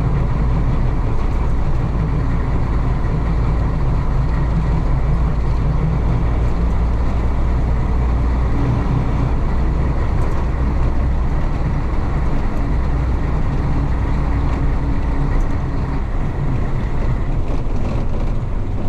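1966 Isuzu BXD30 bonnet bus's DA640 diesel engine pulling the bus along the road, heard from inside the bus as a steady low rumble. The rumble weakens about fifteen seconds in.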